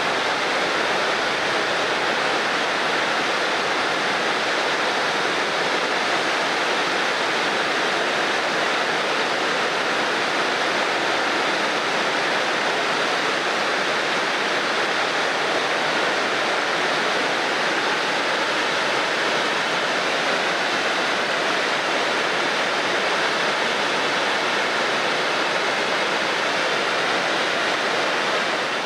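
Shirahige Falls: water pouring steadily, a dense, even rushing sound.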